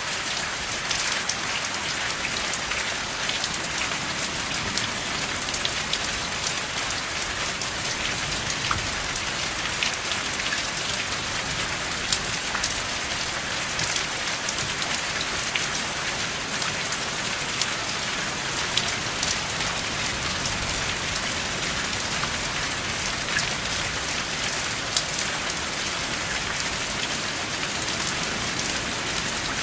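Steady rain with no thunder: an even hiss of falling rain dotted with many small, sharp drop ticks.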